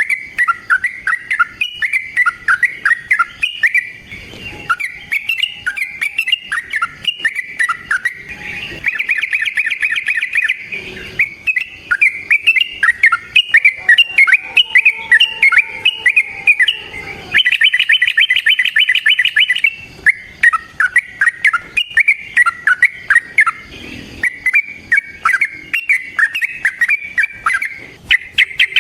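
Yellow-vented bulbul (trucukan) singing a long, fast chattering song of quick varied notes. Twice, about 9 s and 18 s in, it breaks into a rapid even trill lasting about two seconds.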